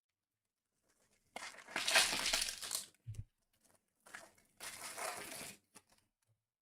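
Trading card pack wrappers being torn open: two crinkly tearing rips, with a short low thump between them.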